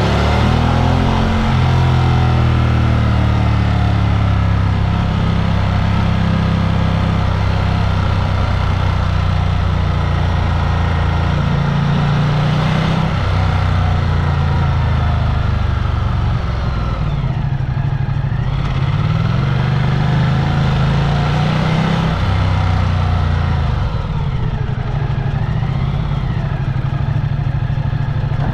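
A vehicle's engine running while driving, its pitch rising and falling several times as the revs change, over a steady rush of wind and road noise.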